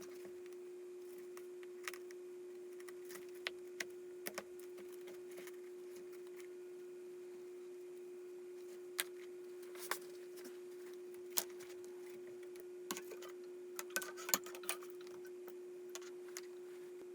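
A steady, faint hum at one pitch, with scattered light clicks and taps over it that grow more frequent in the second half.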